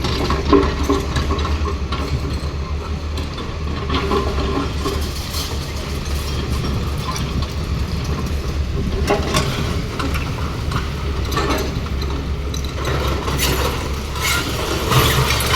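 Hyundai 215 excavator's diesel engine running steadily, with irregular knocks and clinks of broken concrete every few seconds.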